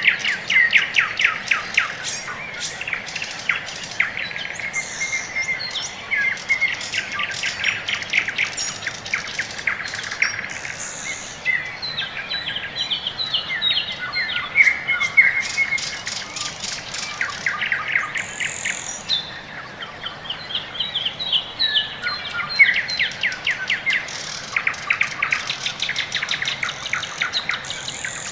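Bird song: rapid trills and chirps in phrases a few seconds long, with short gaps between them.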